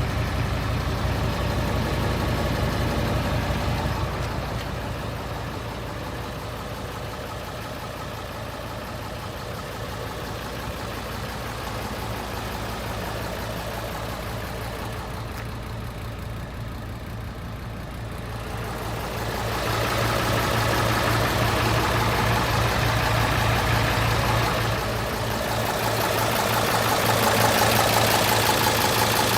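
Hino J08C inline-six diesel engine of a Hino FM truck idling steadily. It drops in loudness a few seconds in and comes back up louder in the second half.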